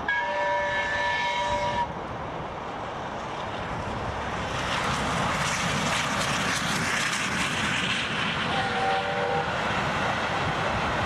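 A horn sounds a steady chord that cuts off about two seconds in. Then the engine noise of a passing airplane builds up and holds, with a short two-note tone near the end.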